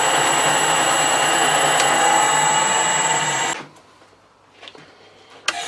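Metal lathe running under a facing cut on hard steel, a steady machine hum with a faint rising tone. It cuts off suddenly about three and a half seconds in, leaving only faint sounds. A sharp click comes near the end and machine noise starts again.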